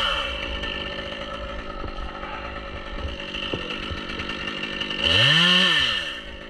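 Two-stroke Stihl chainsaw idling, with a quick throttle blip about five seconds in, its pitch rising and falling back to idle. It is just settling back down from a rev at the start.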